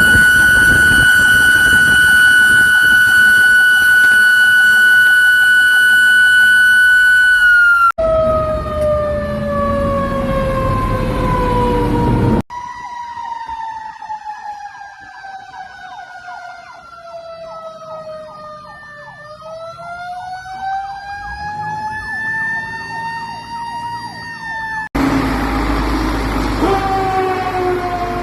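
Fire truck sirens in several short clips. A steady, high held siren tone drops in pitch near the end of the first clip. It is followed by a falling wail, then a quieter wail that slowly falls and rises again, and another siren near the end.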